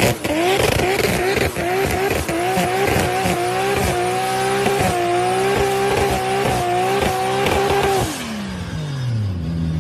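Toyota Supra MK4's 2JZ straight-six revved hard and held high with the rear tyres squealing, as in a burnout or drift. The engine note climbs in the first second, holds high with a slight waver, then drops away about eight seconds in as the revs fall back.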